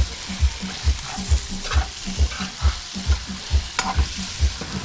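Sweet potato pieces sizzling as they fry in a stainless steel pan, with a metal spoon stirring and scraping the burnt bits off the pan bottom in a few sharp strokes. A steady low thump runs underneath, about twice a second.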